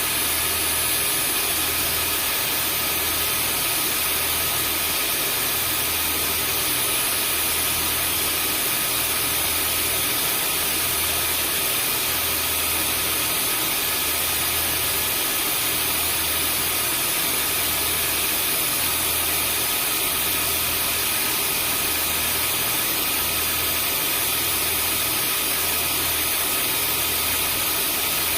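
Vacuum cleaner motor running steadily: an even, loud rushing noise with a thin high-pitched whine and a low hum that pulses about once a second.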